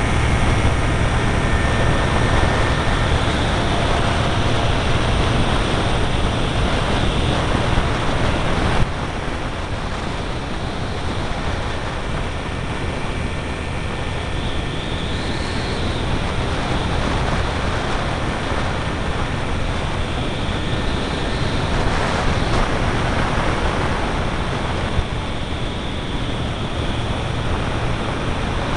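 Flyengine F200 27 hp engine of an ultralight trike running steadily, mostly buried under a heavy rush of wind on the microphone. The sound drops abruptly about nine seconds in and then carries on much the same.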